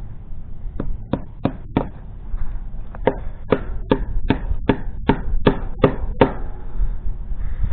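Hammer blows: four quick strikes, a short pause, then about nine steady strikes at roughly three a second, each with a short ring.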